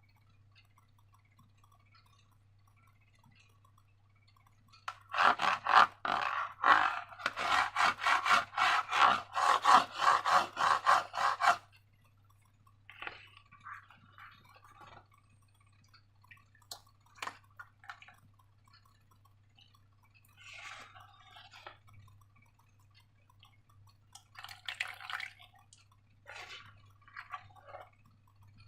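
Slime being worked by hand: about five seconds in, a run of quick wet rubbing and squelching strokes lasts roughly seven seconds, then gives way to scattered, softer squishes.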